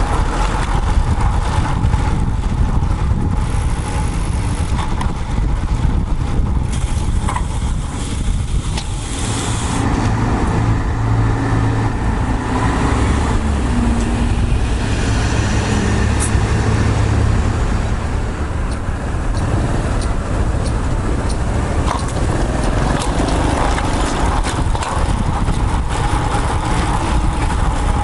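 Wind rumbling on a bike-mounted action camera's microphone while riding a road bike, mixed with road traffic noise. A steady low engine hum from a nearby motor vehicle joins in from about a third of the way through to past halfway.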